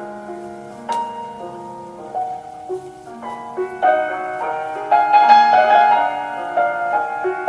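Piano playing a classical piece, a flowing line of notes that starts quiet and swells louder from about halfway through.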